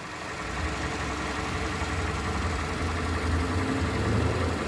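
Freshly overhauled 2007 Toyota Camry engine idling steadily while it breaks in, a low even hum that comes up about half a second in.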